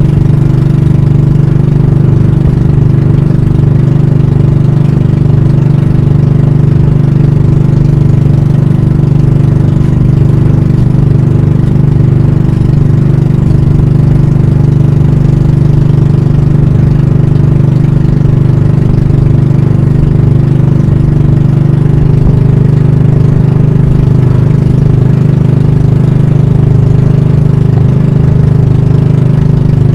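Pump boat (banka) engine running steadily and loudly at close range, its note shifting slightly about twenty seconds in.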